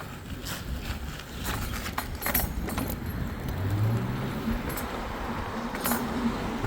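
Vehicle ride noise: a steady rushing with several sharp clicks and rattles, and a short rising engine-like tone about four seconds in.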